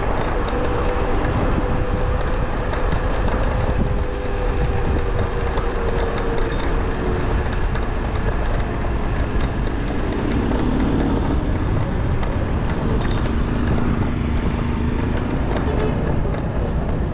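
Wind rushing over the microphone of a moving electric bicycle, with street traffic around it. A faint steady whine slowly drops in pitch over the first several seconds.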